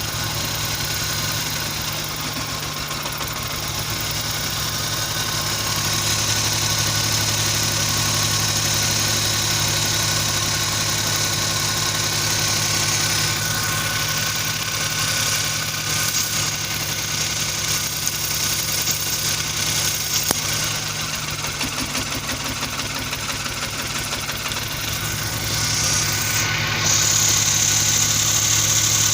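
Suzuki K6A three-cylinder engine idling steadily. It has a misfire, which the owner puts down to a spark plug. The engine gets a little louder about six seconds in and again near the end.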